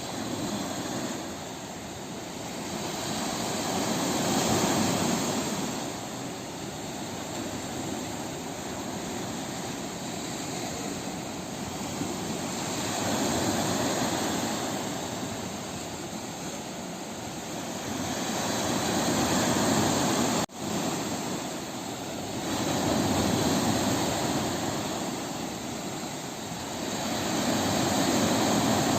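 Sea waves breaking on a beach: a continuous surf roar that swells and falls back every several seconds as each wave comes in, with a brief break about two-thirds of the way through.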